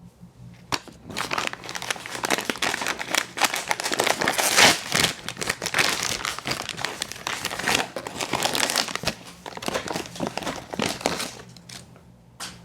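Crinkling of a food wrapper being handled and pulled open, with dense crackles that go on for about eleven seconds, loudest near the middle, and stop about a second before the end.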